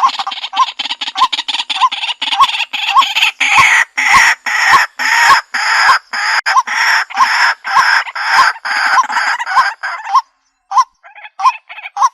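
Male white-breasted waterhen calling: a loud, fast run of harsh repeated notes, about two a second, which break up into shorter calls with gaps near the end.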